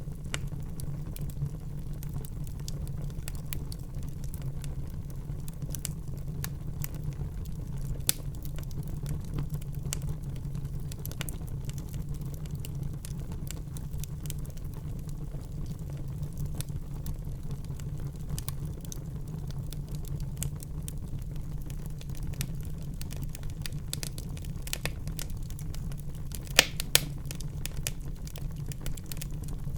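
Wood fire burning in a fireplace: a steady low rumble of flames with continual small crackles and a few louder pops, the loudest about three-quarters of the way through.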